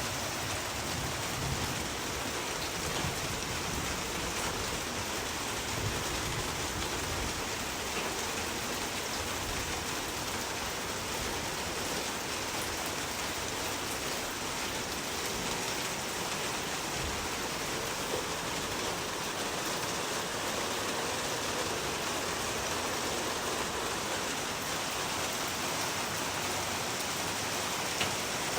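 Steady rain, falling evenly without pause.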